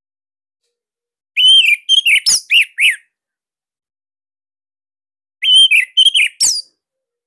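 Orange-headed thrush (anis merah) singing two short, loud phrases of quick whistled notes, each a run of four or five sharp slurred notes, the first about a second and a half in and the second near the end.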